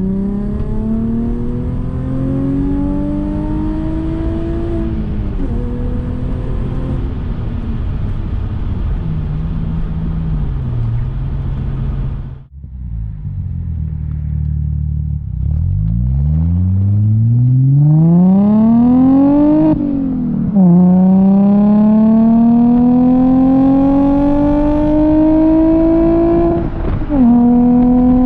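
2003 Audi A4 B6's 3.0-litre V6 through a custom exhaust, accelerating through the gears. The engine note climbs steadily and drops at each upshift, three times, with a short lull about twelve seconds in before a hard pull.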